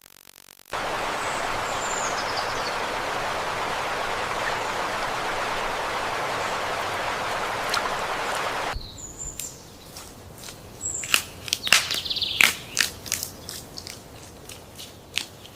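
A steady hiss of outdoor noise with a few faint high bird chirps, cutting off abruptly after about eight seconds. Then comes a quieter stretch of sharp clicks and taps mixed with short bird chirps.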